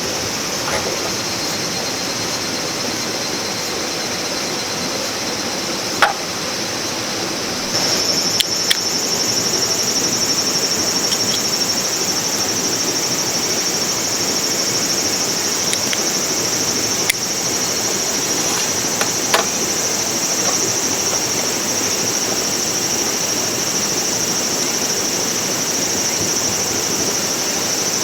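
Steady rush of a flowing river, with a high steady buzz joining about eight seconds in and a few sharp clicks.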